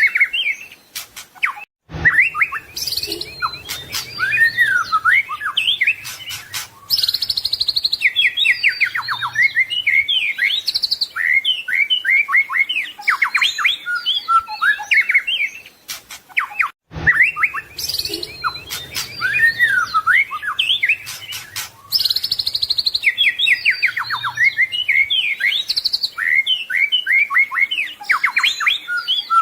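White-rumped shama (murai batu) singing a rich, varied song of rapid whistles, trills and sliding notes packed with imitated phrases (isian). The same passage of about fifteen seconds plays twice, each time after a brief cut: a looped recording.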